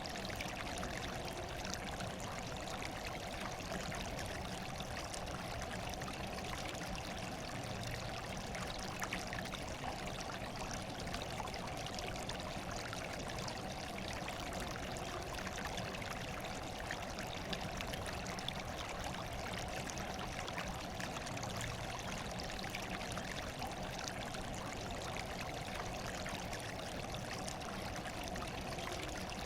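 Running water flowing steadily, an even, unbroken rushing with no changes or separate splashes.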